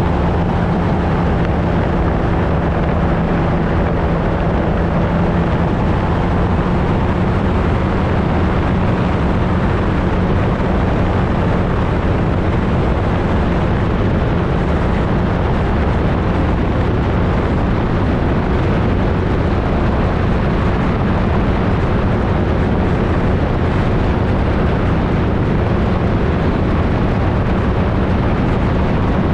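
Flightstar II ultralight's two-stroke engine and propeller running at a steady pitch, with a heavy rush of wind over the microphone.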